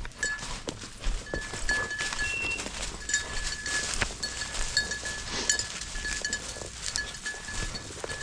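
Small metal bell on a hunting dog's collar jingling in irregular tinkles, with rustling and crunching steps through dry field cover.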